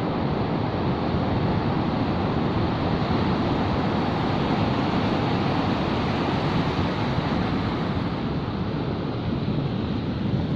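Steady rush of sea surf, mixed with wind blowing on the microphone.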